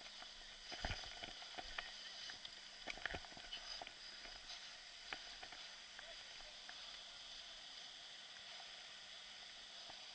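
Quiet water sounds with scattered knocks and clicks, and two heavier thumps about one and three seconds in, as of people moving through water with gear.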